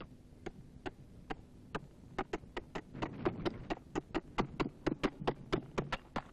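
A series of sharp taps or knocks, a few at first and quickening to about four or five a second, over a faint low hum.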